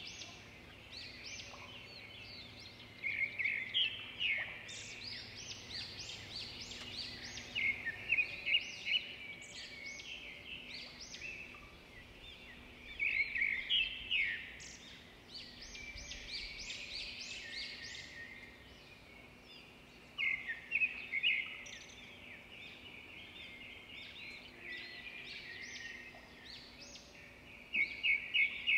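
Songbirds chirping and twittering in quick runs of notes that swell every few seconds.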